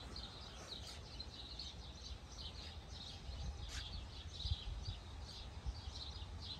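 Small birds chirping repeatedly in short high calls, over a low steady rumble.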